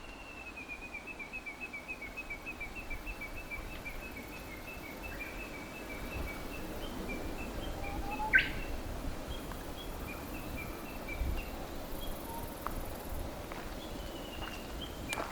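Birdsong: a bird repeats short chirps in quick succession for the first few seconds, then calls only now and then. A single sharp click comes about eight seconds in.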